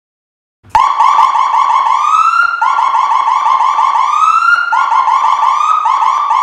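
Fire truck's electronic siren starting abruptly under a second in, with a rapid pulsing warble of about eight chirps a second, broken three times by short rising whoops.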